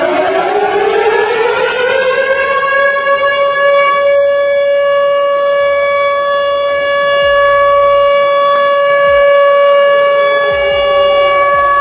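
Tornado warning siren winding up in pitch over the first couple of seconds, then holding one steady wail, and starting to wind down near the end.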